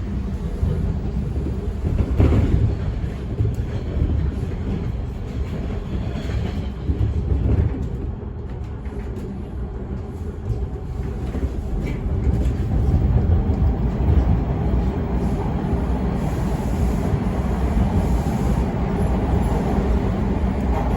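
Bombardier T1 subway car running along the track, heard from inside: a steady rumble of wheels on the rails with an odd rattling from the car, and a brief louder clunk about two seconds in.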